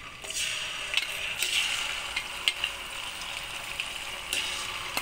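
Chicken pieces sizzling in hot oil, the sizzle swelling about a third of a second in as the chicken goes into the pan. A few sharp clinks of a metal ladle against the pan come through it.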